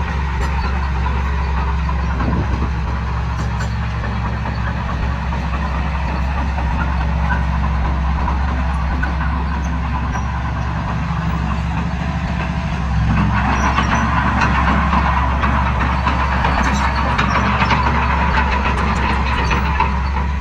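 Heavy diesel earthmoving machine running steadily. About thirteen seconds in it grows louder, with a dense clattering noise on top of the engine.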